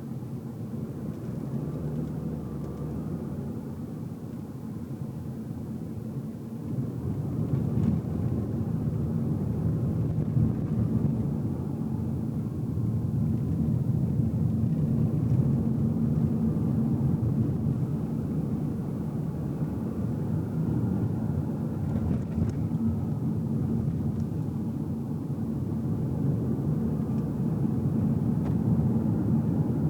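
A car's engine and road noise heard from inside the cabin while driving, a steady low rumble. The engine note grows louder about seven seconds in.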